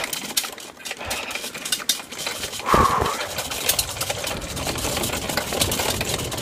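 A bike coasting downhill over rough, bumpy ground, rattling with many small knocks under a rushing noise that grows louder about halfway through as it picks up speed. A brief louder sound comes near the middle.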